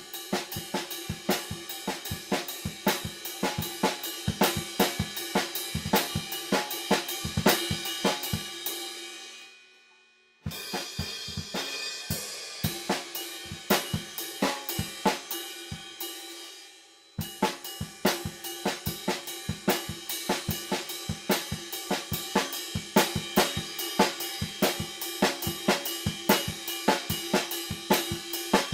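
Acoustic drum kit played freely, with a dense stream of snare, bass drum, hi-hat and cymbal strokes, picked up unprocessed by a stereo overhead pair about 2 m away. About 9 s in the playing stops and the cymbals ring out almost to silence, then the drumming starts again. A short dip in the low drums around 16 s ends as the full kit comes back in.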